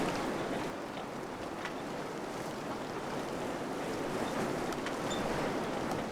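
Wind blowing steadily, a full rushing noise that swells and eases slightly, with a few faint small ticks and brief high chirps over it.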